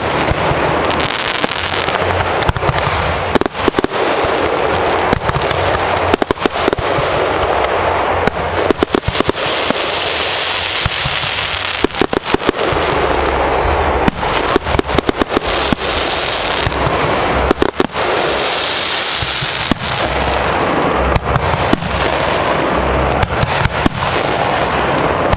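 Large professional fireworks display: a continuous dense crackle of burning stars, with many sharp shell bursts coming in quick clusters.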